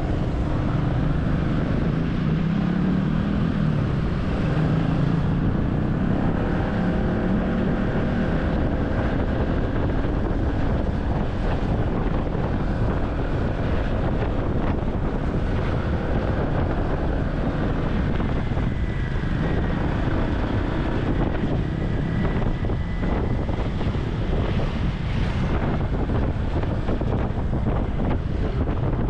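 Wind rushing over the microphone on a moving motorcycle taxi, with the motorcycle's engine running and road noise underneath, steady throughout.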